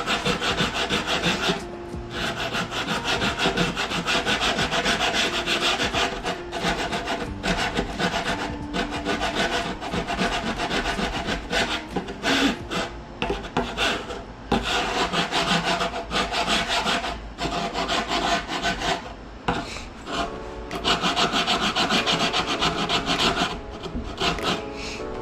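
A hand file rasping over a foam deer mannequin form in rapid back-and-forth strokes, carving in the muscle lines. There are brief pauses between runs of strokes.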